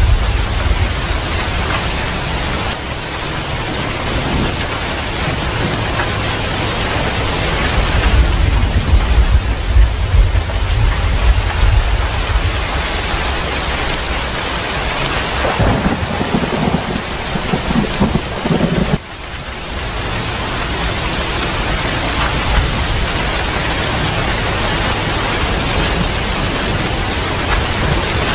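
Steady heavy rain with rolling thunder rumbling beneath it, the thunder swelling loudest about a third of the way in. The sound drops away suddenly for a moment about two-thirds of the way through, then the rain carries on.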